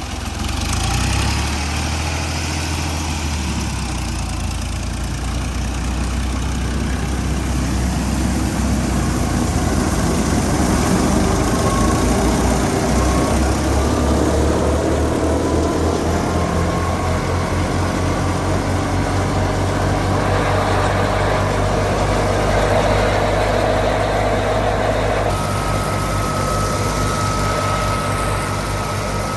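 Fiat 480 tractor's diesel engine running steadily under the load of the thresher, with an even firing beat and a steady high whine that joins near the end.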